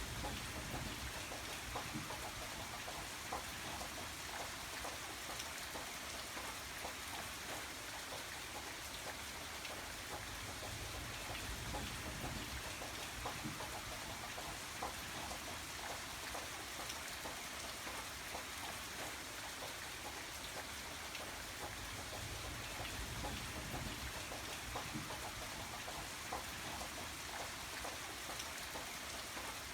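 Steady rain falling, with many individual raindrops ticking on a surface.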